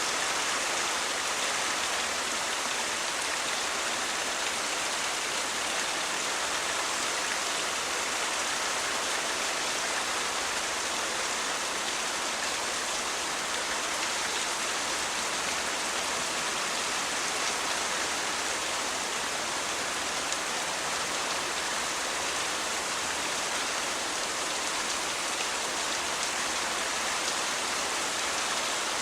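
Steady rain falling, an even hiss that holds at one level throughout with no thunder.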